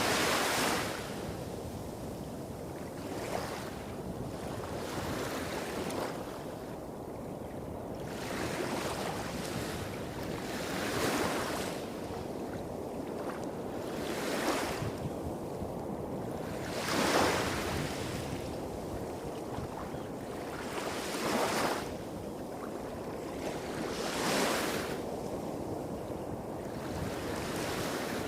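Small waves washing onto a beach, each one swelling and fading every few seconds. Underneath is a steady low rumble of waves hitting rocks a few hundred metres away.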